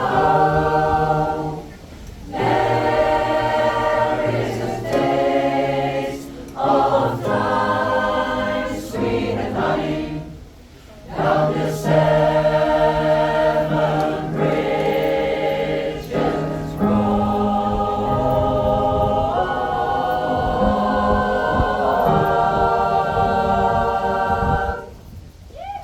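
Pop choir singing in harmony, in phrases broken by short pauses about two seconds in and again around ten seconds in; the song ends near the end.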